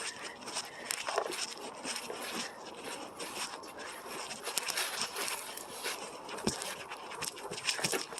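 Footsteps crunching and rustling as someone scrambles down a small wooded hill, with many short irregular crackles.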